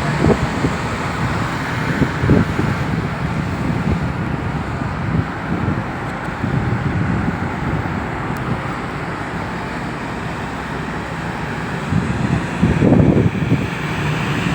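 Steady rumbling noise with wind buffeting the microphone in low gusts, strongest at the start, about two seconds in and about thirteen seconds in.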